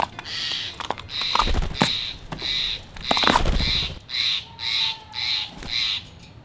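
A jay giving a long series of harsh, rasping calls, about two a second, that stop shortly before the end. Two low rumbles come in about a second and a half and three seconds in.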